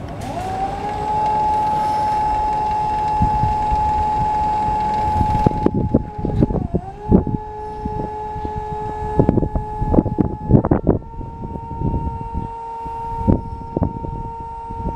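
BT RRE-160 electric reach truck's electric motor running with a steady high whine that comes up to speed at the start. From about five and a half seconds in, repeated clicks and knocks sound over the whine, and its pitch dips briefly and shifts a little twice.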